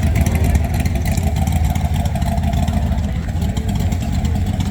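A car engine running steadily at low revs, with a rapid low pulsing from its exhaust.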